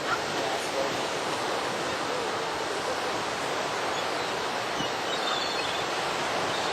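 Ocean surf washing steadily onto the beach, a continuous even rush of waves.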